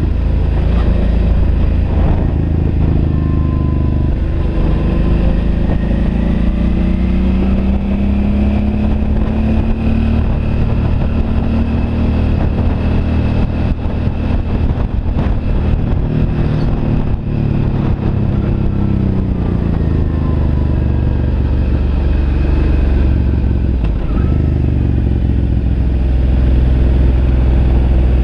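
Suzuki V-Strom DL 650's V-twin engine running on the move, its pitch climbing a few seconds in and falling again past the middle, over a steady low rumble.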